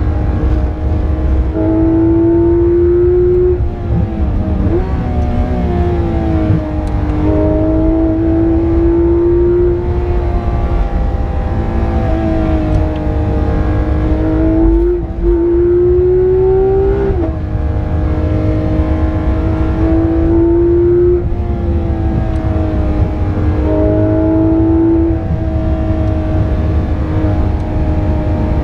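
Porsche 991.2 GT3 RS's naturally aspirated 4.0-litre flat-six, heard from inside the cabin on a flat-out lap. Its pitch climbs and falls again and again, stepping abruptly at each gear change, over a steady low rumble from the road.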